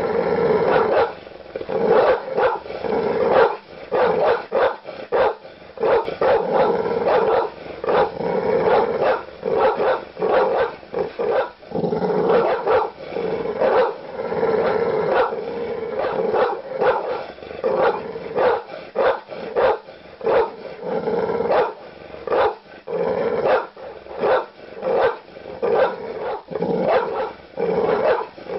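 Large dogs barking aggressively, with deep barks coming rapidly, several a second, without a break.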